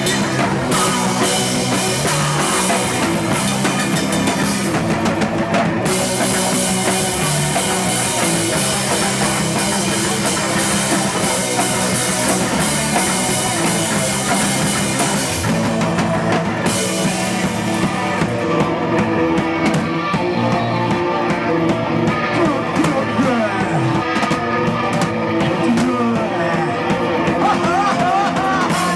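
Rock band playing live and loud, drum kit and electric guitar together; the cymbals drop out briefly twice.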